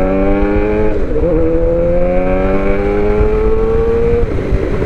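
Suzuki GSX-R750's inline-four engine, fitted with aftermarket headers, midpipe and M4 slip-on exhaust, pulling up through the revs under acceleration. Two upshifts drop the pitch, one about a second in and one near the end.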